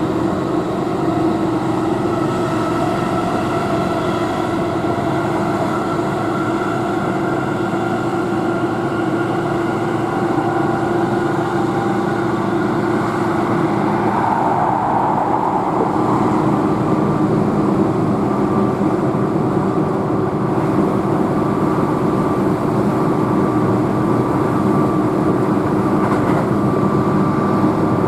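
Keihan electric train running at speed, heard from inside the car: steady rolling and rail noise with a low motor hum, swelling briefly about halfway through.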